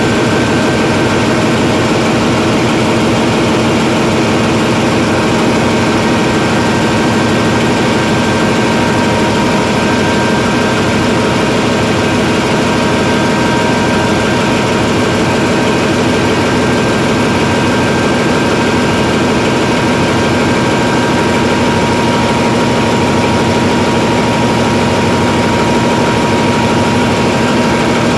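Hyundai Himsen medium-speed marine diesel generator engine running steadily at constant speed, with a steady whine riding over the dense engine noise; the speed does not rise or drop.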